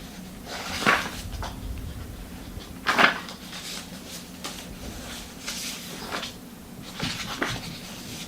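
Several short rustles and bumps of something being handled, the loudest about a second in and three seconds in, with more around seven seconds, over a faint low steady hum.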